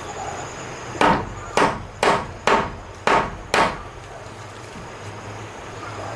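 Six sharp knocks in quick succession, about two a second, starting about a second in and stopping before the fourth second.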